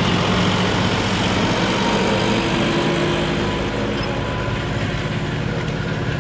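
John Deere 5405 tractor's common-rail (CRDI) diesel engine running steadily, easing slightly in loudness a little past halfway.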